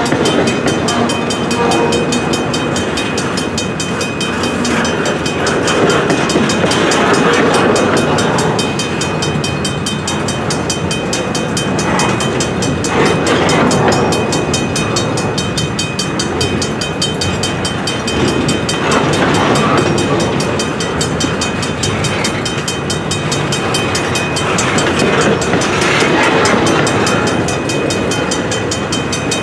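Double-stack intermodal well cars of a freight train rolling slowly through a level crossing: steel wheels rumbling and clattering over the rails, swelling every few seconds as trucks pass. A crossing bell rings with rapid, even strokes.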